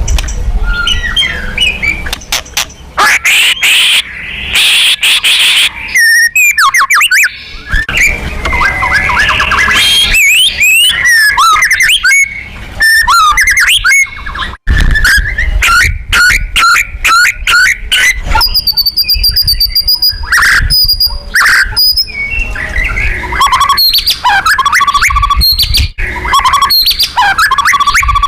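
White-rumped shama singing loudly: a fast, varied stream of whistles, quick rising and falling sweeps, trills and rattling notes, broken by sudden stops and restarts.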